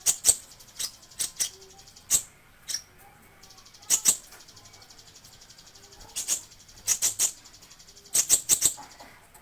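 Kolibri ninja sunbird singing: sharp, very short high chirps in irregular clusters of two to five, over a faint, rapid high-pitched buzzing trill through the middle.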